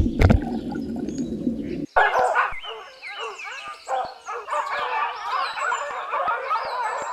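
Low rumbling water-like noise with a couple of knocks, cut off sharply about two seconds in. Dense overlapping chirping and twittering of many small birds follows.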